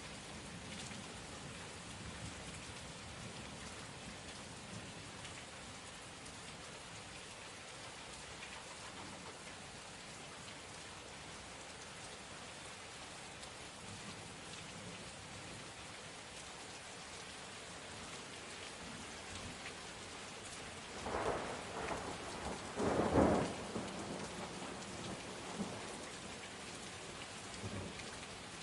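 Steady heavy rain hissing and pattering on surfaces, with a close thunderclap cracking and rumbling about three-quarters of the way through, loudest in its second peak.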